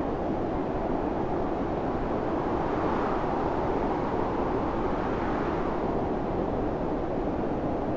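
Storm wind blowing steadily in a dense rushing noise, gusting up a little in the middle.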